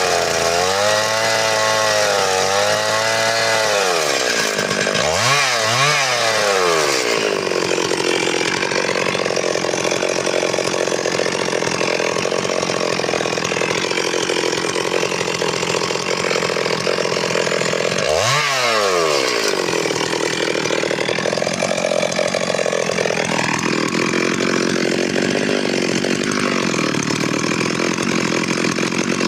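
Stihl MS 382 two-stroke chainsaw revving in several quick throttle blips, then held at high revs with a steady rasp as the chain cuts into wood. About two-thirds of the way through the engine dips and revs up again.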